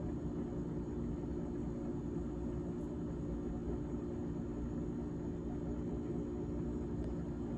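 GE GTH18XCTZRBB refrigerator running: a steady hum with several held tones and a low rumble underneath.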